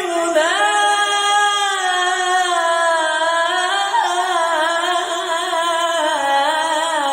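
A male singer holding one long, ornamented note in an Arabic song, the melody wavering and slowly falling in pitch.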